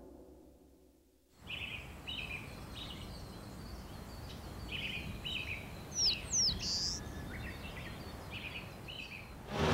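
Small birds chirping in short repeated calls over a steady outdoor background hiss, with a couple of quick high whistled calls about six seconds in. Before that, about a second of near silence.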